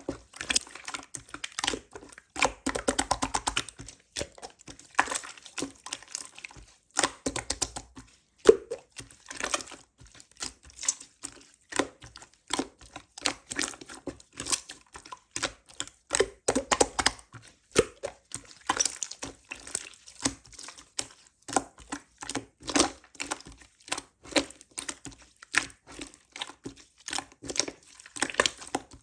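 Slime being squished and pressed by hand, giving a fast, irregular stream of small sticky clicks and pops.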